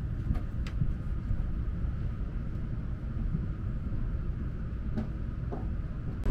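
Steady low rumble of an N700S Shinkansen at speed, heard inside the passenger cabin, with a faint steady whine above it and a few soft ticks.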